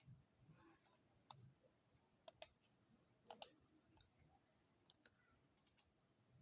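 Faint, scattered clicks of computer input, about ten in all, some in quick pairs. These are the sounds of keys and mouse buttons being worked while lines of code are copied and pasted in a text editor.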